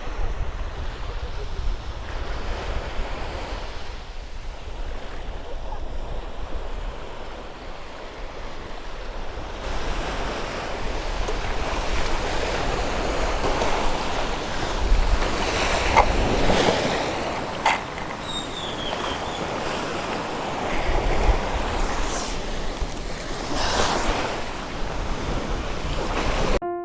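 Sea waves washing on the shore, a steady surging hiss, with wind rumbling on the microphone.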